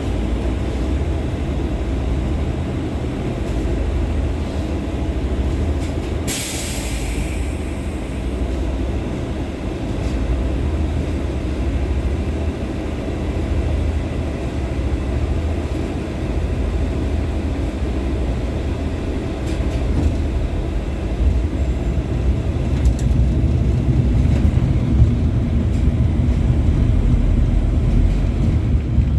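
LVS-86K articulated tram running along the track, heard from inside the passenger saloon: a steady low rumble of wheels on rails and traction drive. A brief hiss comes about six seconds in, and the running grows a little louder near the end.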